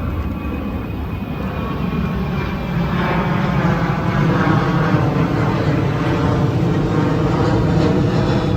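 Jet aircraft passing low overhead, its engine noise growing louder about three seconds in and holding there.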